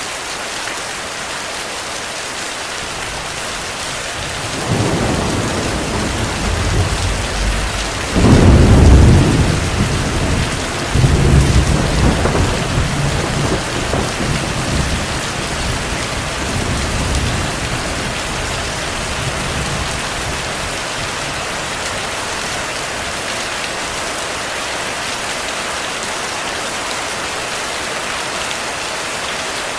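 Heavy, steady rain with a roll of thunder. A low rumble builds about five seconds in, peaks in a loud peal around eight to nine seconds, rumbles again a few seconds later, then rolls away over the following several seconds, leaving only the rain.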